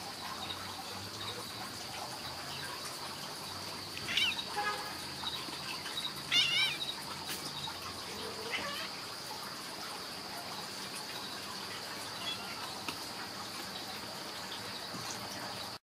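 Outdoor background with a steady high-pitched drone and a few short, warbling bird chirps about four, six and a half and eight and a half seconds in.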